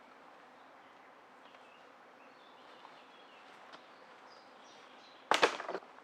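Quiet woodland background with faint bird chirps. About five seconds in comes a sudden loud crunching crack lasting about half a second, the loudest thing here.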